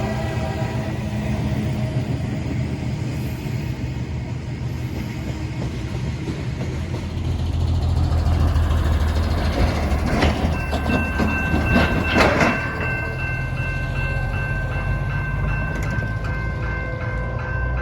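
Freight train passing with a steady low rumble and rattle of rolling cars, the locomotive horn trailing off in the first moment. About halfway through, clattering briefly grows louder and steady high ringing tones join and carry on to the end.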